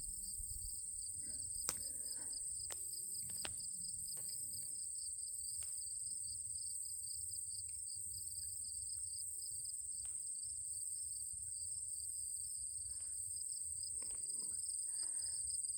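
Steady chorus of crickets and other insects, two continuous high trills at different pitches, over a low rumble, with a few faint clicks about two and three and a half seconds in.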